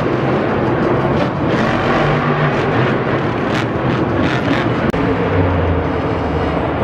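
Monster truck's supercharged V8 engine running loud and unbroken inside a stadium.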